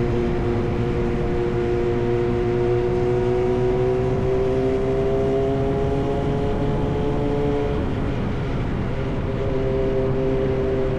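Yamaha R1 sport motorcycle engine with an SC Project exhaust running at a steady cruise. Its pitch climbs slowly for about eight seconds, then drops suddenly and holds steady at a lower pitch.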